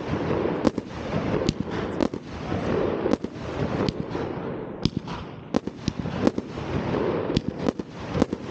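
New Year's Eve fireworks: many sharp bangs and cracks going off at irregular intervals over a continuous low din.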